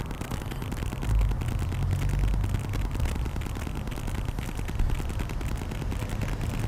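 Fluid pump clattering rapidly while 75W90 gear oil is pumped through tubing into the transmission fill port, with an uneven low rumble underneath.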